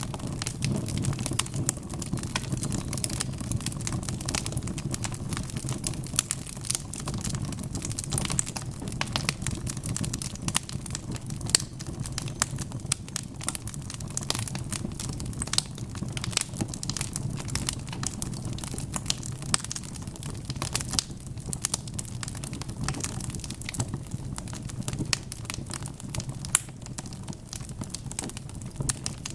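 Wood fire crackling in a fireplace: many sharp irregular pops and snaps over a steady low rumble of the burning logs.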